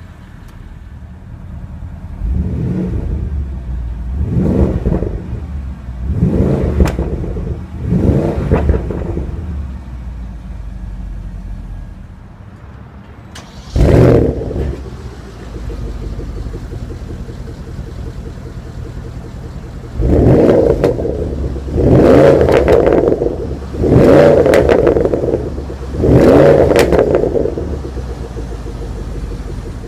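Porsche Panamera Turbo's 4.8-litre twin-turbo V8 running while parked and being revved repeatedly: four revs in the first ten seconds, a single sharp rev near the middle, and four louder revs in the second half, falling back to idle between them.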